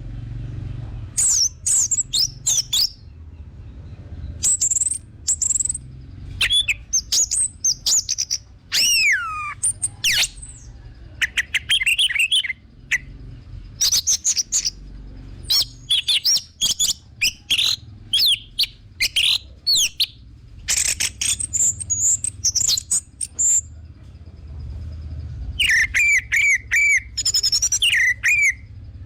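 Orange-headed thrush singing: a long run of varied, rapid whistled and warbled phrases in short bursts with brief pauses, over a steady low hum.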